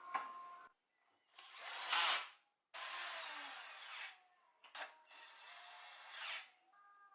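A small electric motor running in three bursts of a few seconds each, each swelling and then cutting off.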